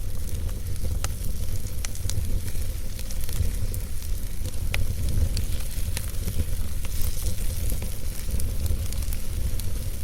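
Wood fire burning in a fireplace: a steady low rumble and hiss of flames, with scattered sharp crackles and pops from the burning logs, a few a second.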